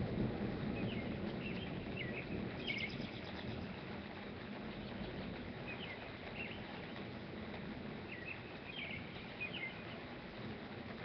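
A small songbird chirping in short, quick phrases, in two bouts a few seconds apart, over steady background noise.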